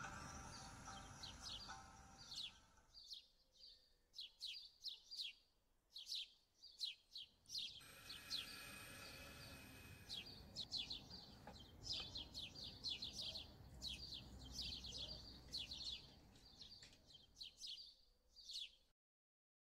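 Faint birds chirping: many short, high chirps in quick runs. A soft music bed fades out about three seconds in, and all sound cuts off suddenly near the end.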